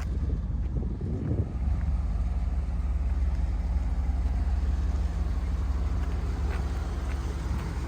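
1986 Pontiac Firebird Trans Am's V8 engine running with a steady low drone, less settled in the first second or so.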